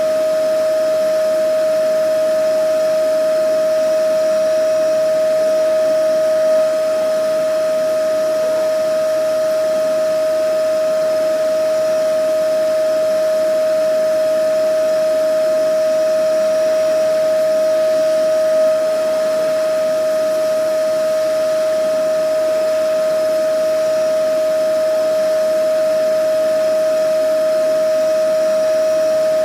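Vacuum cleaner running steadily: an even rushing of air under a constant high motor whine, with slight bumps in level twice.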